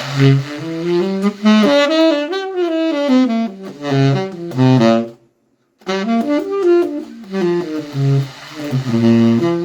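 Saxophone playing two short melodic phrases, stepwise runs of notes with a brief break about five seconds in. The volume swells and drops within the same phrase, a demonstration of dynamic control between loud and soft playing.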